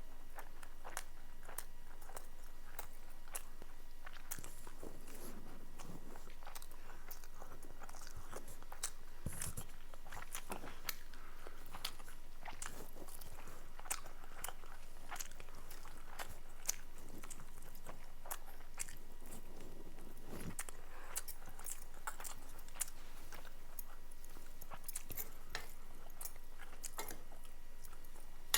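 A person chewing and biting food close to the microphone: a dense, irregular run of small mouth clicks and crunches.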